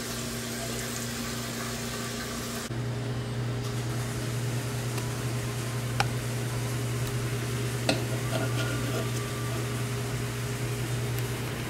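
Acorn weevil grubs frying in butter in a small cast-iron skillet, sizzling over a steady hum. A couple of sharp pops come about six and eight seconds in.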